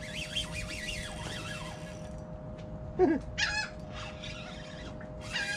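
Birds calling over open water, with wavering high calls and then a louder falling cry about three seconds in, followed by a short call with many overtones.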